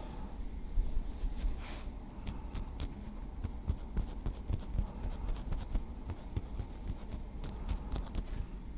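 A small wooden stick tapping lightly: an uneven run of quick, dry clicks, several a second.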